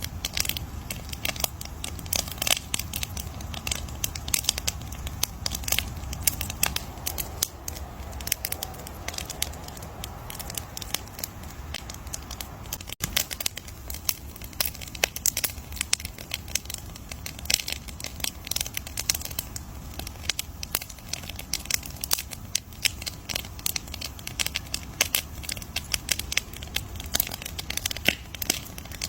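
Campfire crackling: dense, irregular pops and snaps of burning wood over a low steady rumble of the flames, with a momentary gap about thirteen seconds in.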